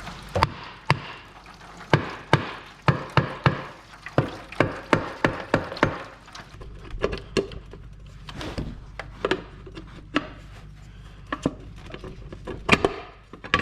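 Repeated sharp knocks, of a tool striking the Can-Am's CVT cover to work it loose. They come about two to three a second for the first six seconds, then as scattered single knocks.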